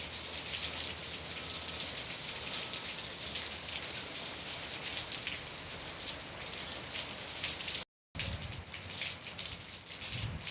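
Heavy rain with big raindrops falling: a steady hiss with the patter of individual drops striking. The sound drops out completely for a moment about eight seconds in.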